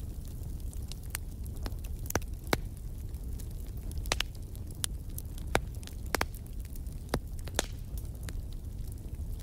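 Wood fire burning in a fireplace: a low steady rumble of the flames with irregular crackles and sharp pops of burning logs, a dozen or so louder snaps scattered through.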